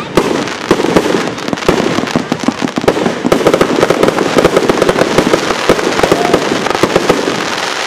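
Fireworks barrage: a rapid, continuous run of cracks and bangs from many shells bursting in quick succession, dying away just after the end.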